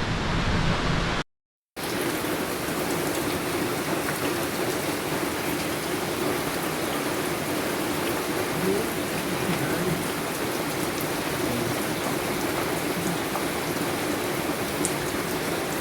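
Heavy rain pouring steadily, with a brief cut to silence a little over a second in.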